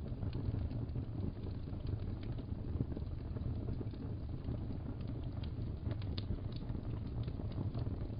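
Wood fire burning in a fireplace: a steady low rumble with scattered small crackles, and a sharper crackle about six seconds in.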